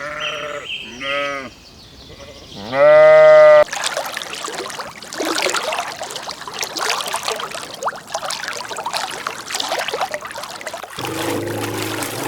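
Sheep bleating: a few short calls at the start, then one loud bleat about three seconds in. A steady crackling, trickling noise follows for most of the rest, and a low call comes near the end.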